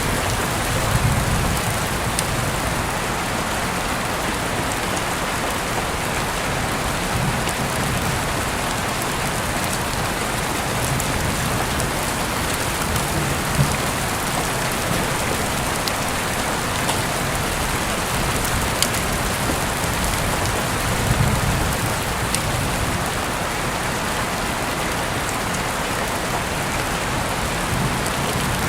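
Steady rain falling, a dense even patter, with a few soft low rumbles swelling in and out and the odd sharp tick standing out above it.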